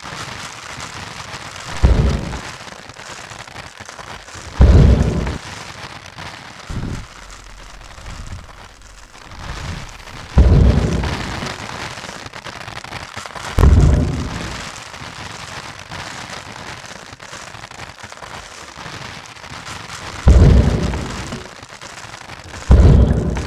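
Homemade foley of a rainstorm: a steady rain hiss broken by seven heavy, deep booming thuds at uneven gaps, each fading over about a second, standing in for the approaching footsteps of a Tyrannosaurus rex.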